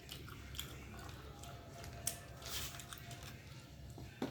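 Someone chewing food close to the microphone, with a few light clicks and a short rustling hiss about two and a half seconds in.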